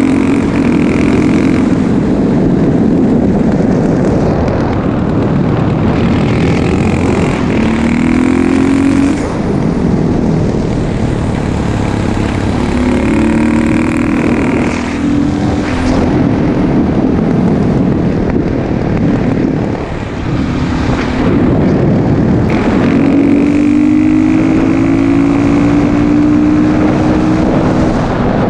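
KTM 640 LC4 single-cylinder four-stroke engine of a 2004 KTM 640 SMC supermoto, running through an exhaust with the dB killer fitted, pulling hard several times with the pitch rising and then dropping back between pulls.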